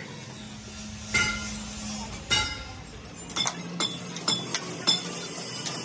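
Metal striking metal in a workshop: two ringing clanks about a second apart, then a quick run of shorter, sharper clinks.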